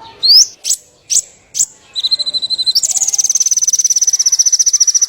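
Small songbird singing: a rising whistle and three sharp high notes, then a short buzzy trill that gives way, about three seconds in, to a long, very rapid high-pitched trill.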